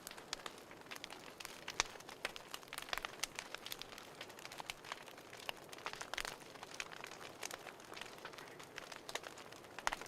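Wood fire crackling in a fireplace: a soft steady hiss with many irregular sharp pops and snaps.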